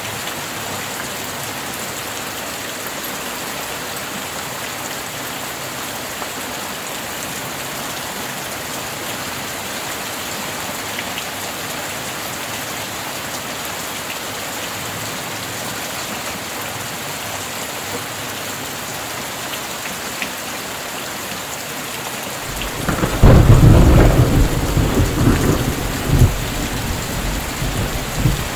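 Steady heavy rain, then about three-quarters of the way through a loud roll of thunder breaks in and rumbles on in waves.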